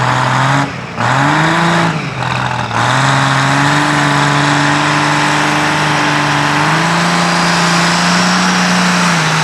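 Competition pulling tractor's engine revving hard: two short throttle swells that rise and fall in pitch in the first three seconds, then a steady high-revving note that steps up slightly in pitch about seven seconds in.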